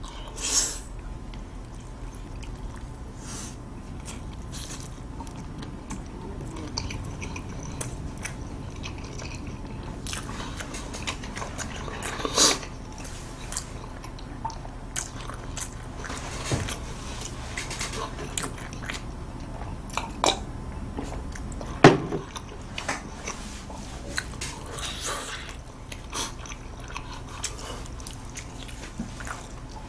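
Close-miked chewing of a mouthful of food, with irregular wet mouth clicks and smacks; a couple of louder smacks come about twelve seconds in and again about twenty-two seconds in.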